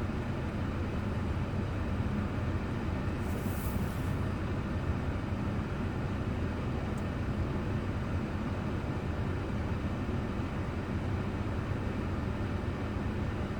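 Steady road and engine noise of a car driving, picked up by a dashboard camera inside the cabin. A brief high hiss comes about three and a half seconds in, and a single tick about halfway through.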